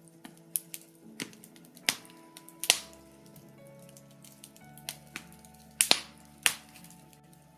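Birch wood burning in a fireplace, crackling with irregular sharp pops; the loudest come in a cluster about three-quarters of the way through. Underneath, soft music holds sustained chords that change every second or two.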